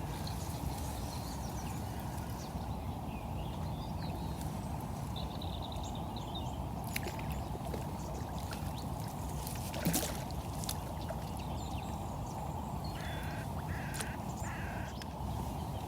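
A duck quacking three times near the end, with fainter calls earlier, over a steady rush of flowing river water. A few faint clicks in between.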